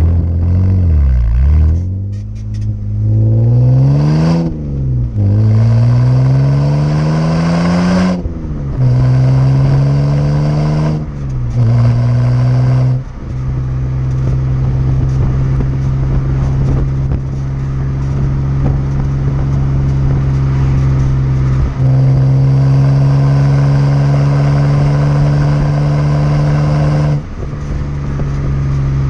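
BMW 330i's inline-six running through a Rogue Engineering aftermarket exhaust, pulling up through the gears. The engine note rises and drops sharply at each of three or four shifts in the first half. It then holds a steady drone at cruise.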